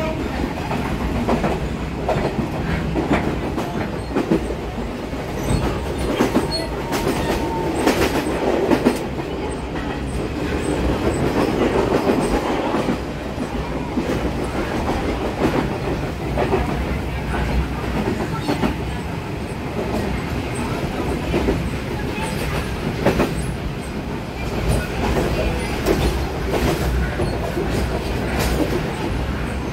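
Passenger train running along the track, heard from inside the carriage: a steady rumble with irregular clicking and clacking of the wheels on the rails.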